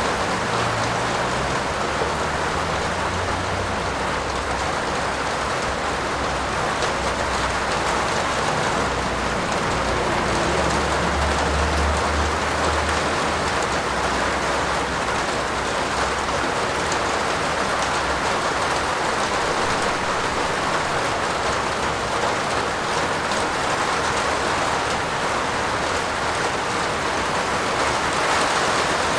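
Steady heavy rain falling on a roof, an even hiss without letup. A low rumble sits underneath through the first half, strongest about eleven seconds in.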